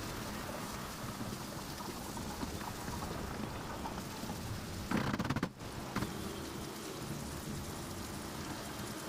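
Onion, cashews, raisins and basmati rice sizzling steadily in olive oil in a nonstick frying pan while being stirred with a wooden spoon. A brief louder noise about five seconds in.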